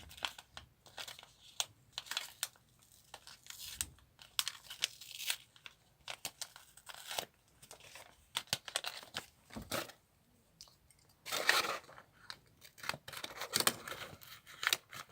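Paper being handled close by: scattered rustles, crinkles and small clicks, with a longer tearing sound about eleven seconds in as a decoration is pulled off the paper.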